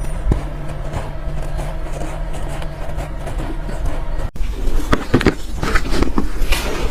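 Soft ice being bitten and chewed: crisp, irregular crunches over a steady low hum. A little over four seconds in, the audio cuts and the crunches come louder and closer together.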